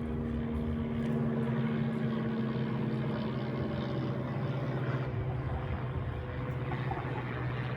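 Light single-engine propeller plane, a Cessna, droning steadily at an even pitch as it flies.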